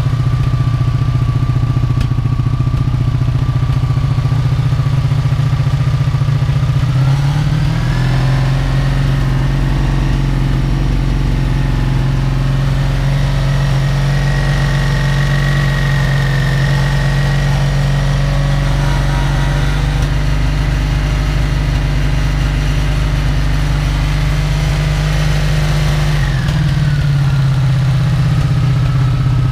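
1983 Honda Magna V65's V4 engine running on its old carburetor boots. It idles steadily, then its speed rises about a quarter of the way in, holds at a higher, steady pitch, and drops back to idle near the end.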